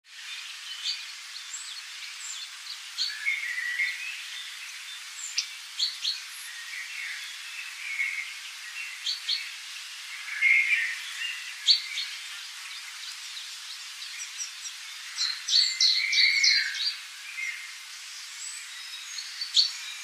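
Forest songbirds chirping and singing in many short calls over a steady hiss, busiest about halfway through and again near three-quarters through.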